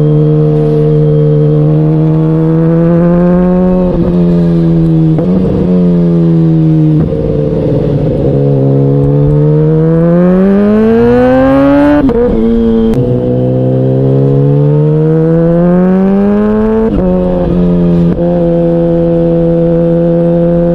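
Vehicle engine running hard under acceleration. Its pitch climbs steadily and then drops abruptly several times as it shifts up through the gears.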